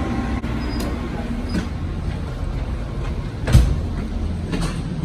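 Train running with a steady low rumble, broken by a few sharp knocks, the loudest about three and a half seconds in.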